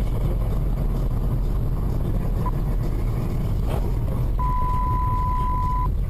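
Steady low rumble of a car's engine and road noise heard from a moving car, with a steady electronic beep lasting about a second and a half near the end.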